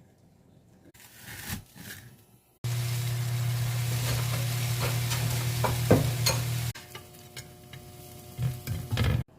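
Food sizzling in a frying pan, a steady hiss over a low hum, starting a few seconds in and stopping abruptly about four seconds later. A few sharp clicks of utensils come near the end of the sizzling, with light knocks in the quieter stretches around it.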